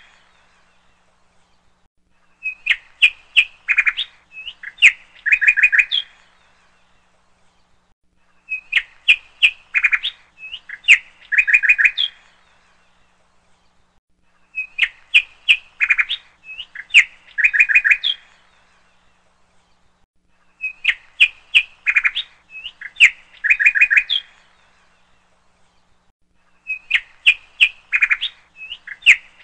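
Bird chirping in a looped background track: the same burst of quick chirps and clicks, in two parts about a second apart, repeats about every six seconds with quiet gaps between.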